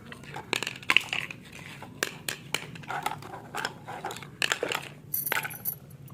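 Small hard toy kitchen pieces clicking and clattering as they are handled, with irregular knocks several times a second.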